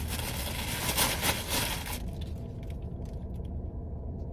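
Rustling and scraping of car mats and their packaging being handled, with small clicks, that stops abruptly about two seconds in. A low steady hum and a few faint clicks remain.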